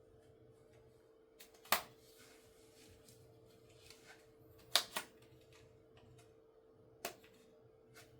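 A few sharp clicks and knocks of objects being handled: one, then a close pair, then another, spread over several seconds. Under them runs a steady faint electrical hum.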